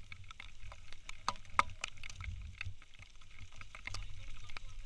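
Raindrops tapping irregularly on the camera, over a low, uneven rumble.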